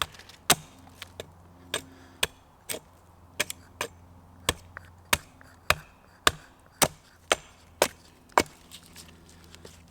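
Wood being chopped with a blade, sharp strikes about two a second and a little uneven, stopping near the end; the piece being split is knotty.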